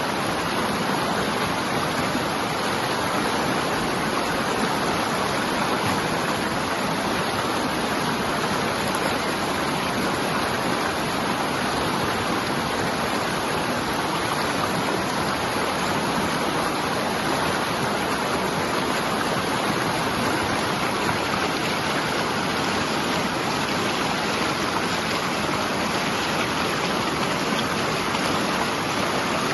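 A river flowing: steady rushing water with no breaks or changes.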